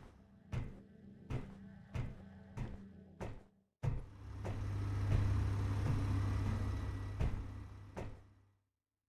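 An engine running with a low steady hum, with sharp clicks every half second or so. It breaks off for a moment a little before halfway, comes back louder, and stops shortly before the end.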